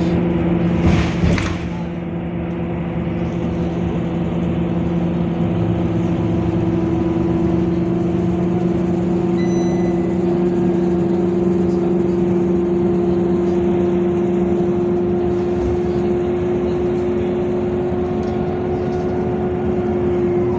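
Scania K230UB bus's five-cylinder diesel and drivetrain running at a steady speed, its pitch held almost unchanged throughout. There is a brief burst of noise about a second in.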